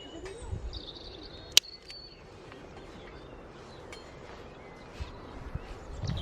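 Small birds chirping over outdoor ambience, with one sharp click about a second and a half in and a few soft knocks near the end.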